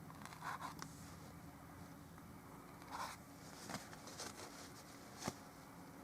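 Faint scratchy brush strokes of oil paint across the painting surface, several short strokes in a row, with one sharp tap a little after five seconds.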